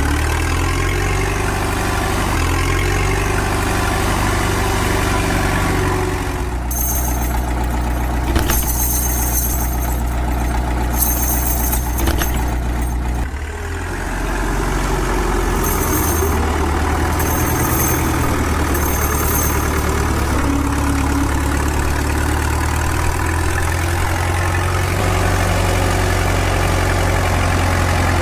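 An engine running steadily at idle, its pitch shifting in small steps, with a rapid high-pitched repeating pattern in two stretches through the middle.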